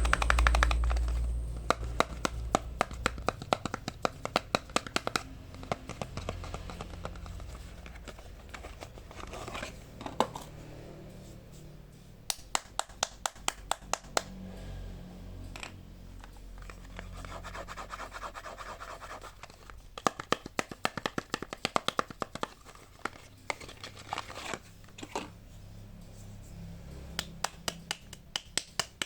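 Hands unwrapping soap bars: the packaging scratching, crinkling and tearing in runs of quick, sharp clicks.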